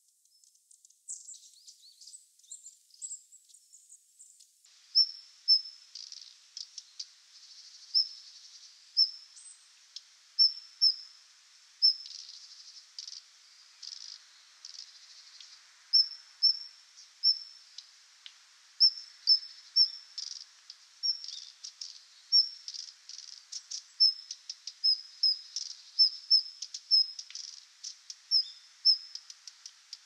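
A long-tailed tit's thin, high 'chi-chi' calls for the first few seconds, then a male Daurian redstart calling: short high whistled notes repeated one or two a second, mixed with dry clicking notes.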